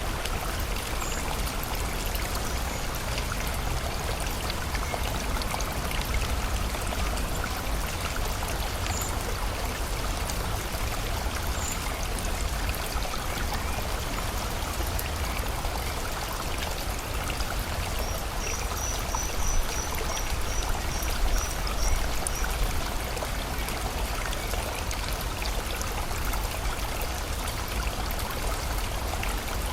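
Steady rush of running water from a stream, with a small bird giving a few single high chirps and, about two-thirds of the way through, a quick run of about a dozen high chirps.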